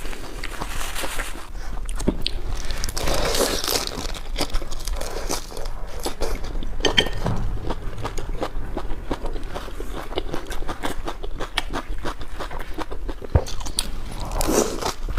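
Close-up eating: crunchy food being bitten and chewed, many small crunches and clicks.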